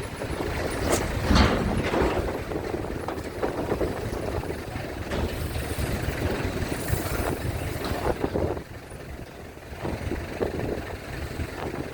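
Heavy truck engines running with a steady low rumble, broken by a few sharp knocks and clanks, one loud knock about a second in. The rumble drops away about two-thirds of the way through.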